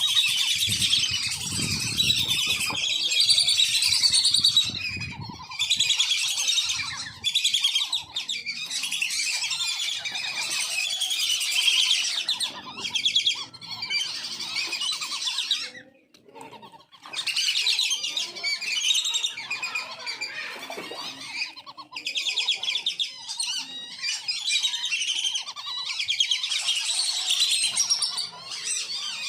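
Wandering whistling ducks calling together: shrill, rapid, twittering whistles that overlap almost without a break, pausing briefly about halfway.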